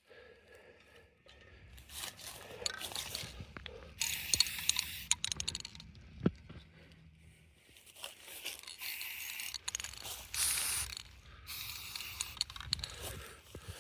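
Aerosol spray-paint can hissing in several short bursts as a muffler is sprayed, with light handling clicks and scrapes in between.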